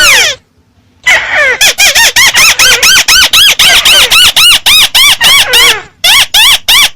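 Volume-boosted recording of the bird Vietnamese fanciers call 'mắt xéo' (slant-eye bird) calling: one long falling call at the start, then after a second's pause a rapid run of rising-and-falling notes, about five a second, with a short break near the end.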